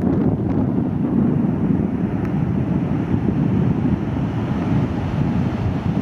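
Wind buffeting the microphone over the steady rumble of heavy surf.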